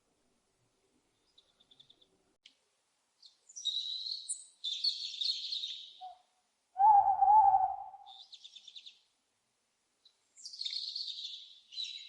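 Small birds chirping and trilling in several high phrases, and about seven seconds in a single louder, lower owl call lasting about a second.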